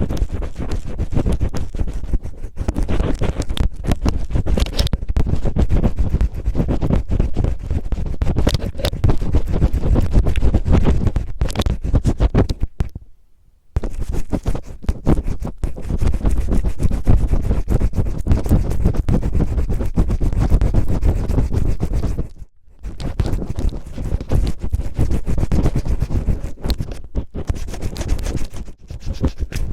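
Cellophane rubbed and crinkled roughly against the microphone, imitating ear cleaning: dense, loud crackling scratches, broken by two short pauses, about 13 and about 22 seconds in.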